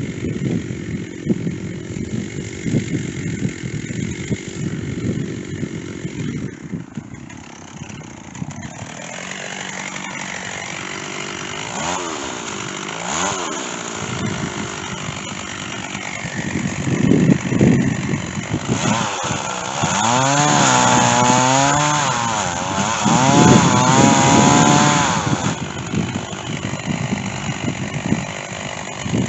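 Stihl chainsaw cutting white oak with a dull chain: the two-stroke engine runs low and rough, revs up and down, then runs at high throttle for several seconds with its pitch wavering under load in the cut before dropping back.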